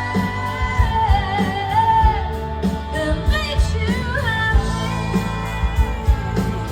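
Live band music with a singer holding long, bending notes over a steady drum beat.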